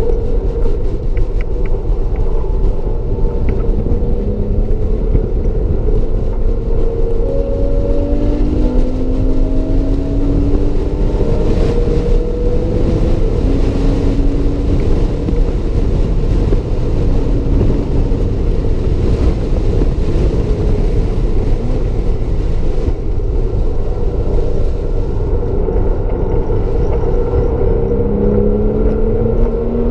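Porsche Cayman S's 3.4-litre flat-six under hard track driving, heard from inside the cabin. The engine note climbs in pitch again and again over a steady low noise.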